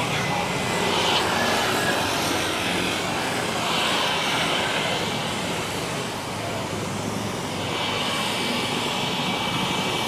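Jet engines of an Airbus A350-941 (Rolls-Royce Trent XWB turbofans) running on its takeoff, a steady roar with a high whine coming in near the end.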